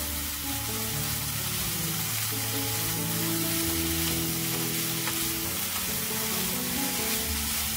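Sweet potato stems sizzling steadily in perilla oil in a frying pan as they are stir-fried and turned with a spatula.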